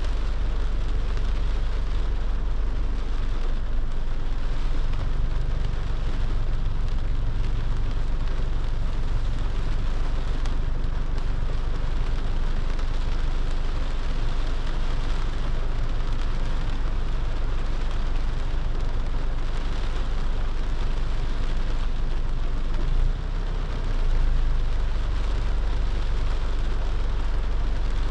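Car driving in the rain: a steady hiss of rain and wet road over a continuous low rumble, with one brief drop in level late on.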